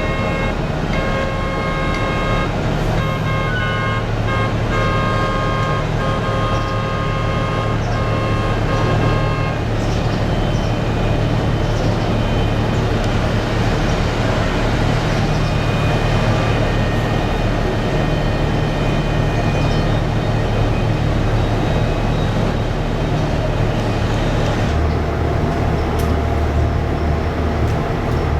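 Heavy cargo-handling machinery loading bulk fertiliser into a ship, running with a steady low hum and a high whine. The whine stops about ten seconds in, leaving a noisier rumble, and a deeper drone starts near the end.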